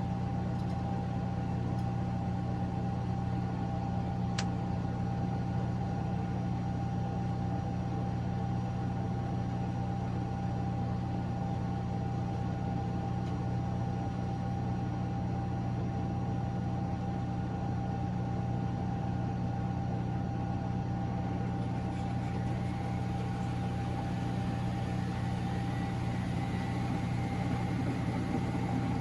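Miele Novotronic W913 washing machine running steadily through its drain and spin after the second rinse: a low hum with a steady whine. A fainter whine starts rising about three-quarters of the way in.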